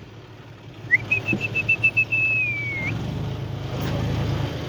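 A single long whistle, warbling at first, then held and dropping at its end, a signal to the tractor driver reversing out of the mud. Then the tractor's engine runs louder from about three seconds in.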